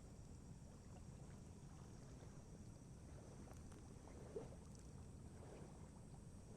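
Faint outdoor ambience: a low steady rumble of wind and lake water with scattered soft crackles from a wood campfire, one a little louder about four seconds in.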